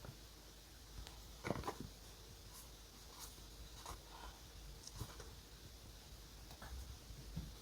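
Pen scratching on notebook paper in short, irregular strokes, with the loudest stroke about one and a half seconds in.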